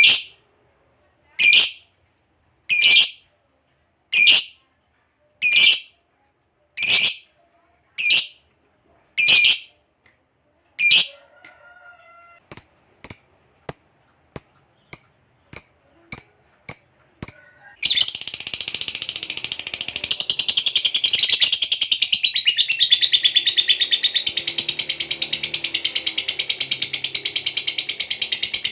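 Lovebird calling. First come single sharp shrieks about every second and a half, then shorter chirps coming faster, about two a second. About two-thirds in, the calls run together into an unbroken rapid chatter, the long 'ngekek' trill that keepers prize in a lovebird.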